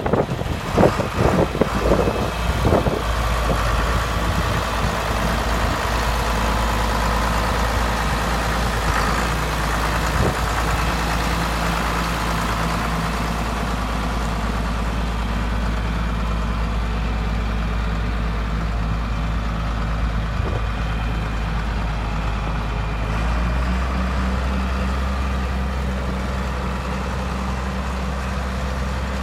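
John Deere 4450 tractor's six-cylinder turbocharged diesel engine running steadily at idle after a few irregular knocks in the first seconds; its note changes about three-quarters of the way through as the engine speed shifts.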